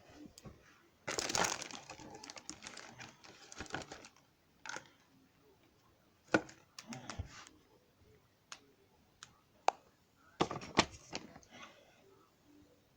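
Rustling of plastic and a series of sharp clicks as LEGO pieces are handled, with a longer rustle about a second in and separate clicks through the rest.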